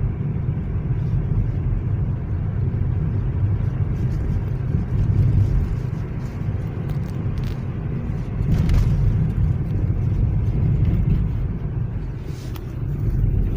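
Steady low rumble of a Lada Vesta on the move, heard inside the cabin: engine and tyres on rough, potholed asphalt, with a few faint knocks.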